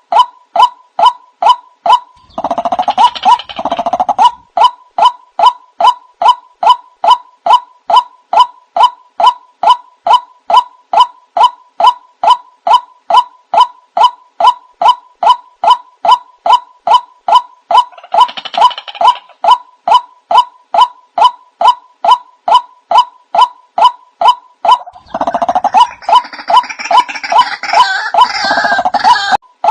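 White-breasted waterhen call used as a lure, a short pitched note repeated evenly about two and a half times a second. It is overlaid by louder, harsher bouts of calling: briefly a couple of seconds in, again midway, and for several seconds near the end.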